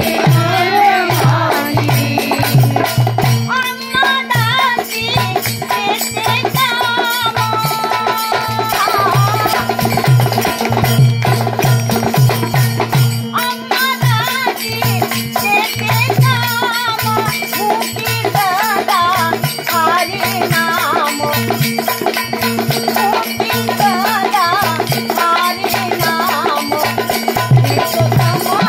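Marathi folk music: a steady drone, a repeating drum beat and jingling rattle percussion, with a wavering melody line over them.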